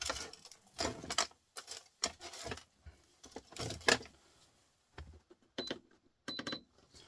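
Scrap copper from stripped printer motors clinking and rattling in short, irregular bursts as it is handled and set on a scale for weighing, with two short high beeps near the end.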